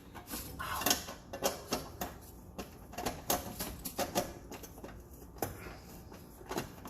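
A run of irregular sharp clicks and taps, a dozen or so, from a screwdriver and screws being worked into place on a gas water heater.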